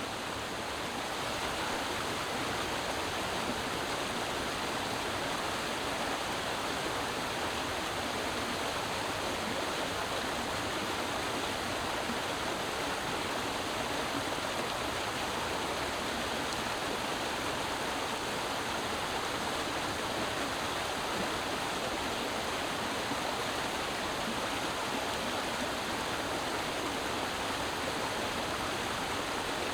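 Creek water running over rocks, a steady, even rush.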